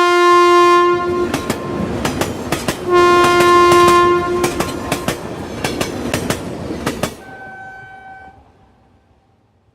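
Train horn sounding two long blasts over rapid clickety-clack of wheels passing over rail joints. A fainter, higher horn note follows briefly, and the sound fades away.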